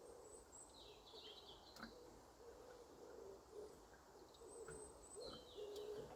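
Near silence with faint distant birds: a low call repeated over and over and a few high, falling chirps.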